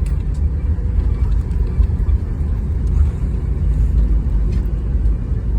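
Boeing 737 airliner heard as a steady low rumble, with a few faint clicks.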